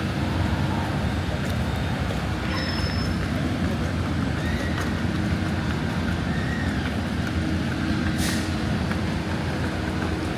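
Steady street traffic rumble, with one short sharp hiss about eight seconds in, like a bus or truck releasing its air brakes.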